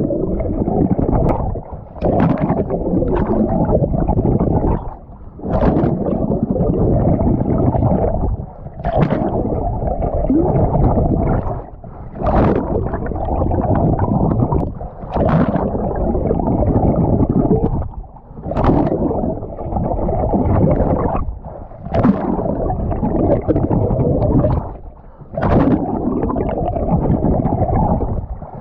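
Open-water swimming close to the microphone: a steady, muffled rush of churning water, broken by a sharp splash about every three seconds in a regular stroke rhythm.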